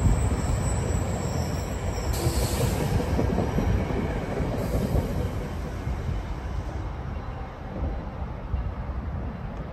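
Commuter train's passenger cars rolling away over the rails, a steady wheel rumble and clatter that fades somewhat as the last car passes.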